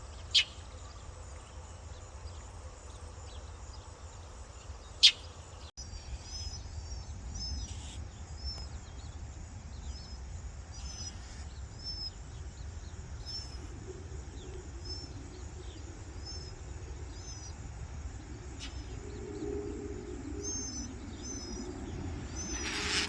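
Northern mockingbird chirps at the nest: short high chirps repeating every half second to a second over a steady low rumble. Two sharp clicks come in the first five seconds, and a low engine hum rises near the end.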